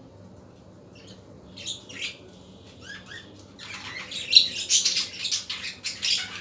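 Pet budgerigars chirping: a few separate chirps at first, then from a little past halfway a dense, louder chatter of many overlapping calls.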